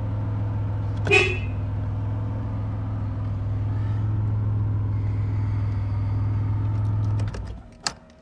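1984 Nissan 300ZX Turbo's 3.0-litre V6 idling steadily, heard from inside the cabin, with a short, loud beep about a second in. About seven seconds in the engine is switched off and dies away, and a sharp click follows.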